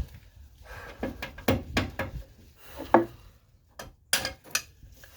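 Hand tools clanking and knocking on the metal of a car's front suspension: a string of irregular sharp clanks, the loudest about three seconds in, ringing briefly.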